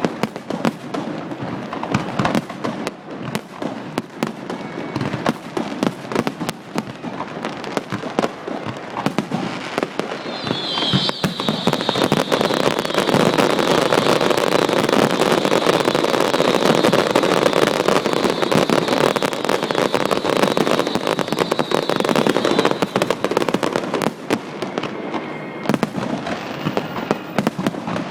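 Fireworks going off in rapid succession, sharp bangs and crackling throughout. About ten seconds in they build into a denser, louder barrage lasting some twelve seconds, with a steady high whistle running through it.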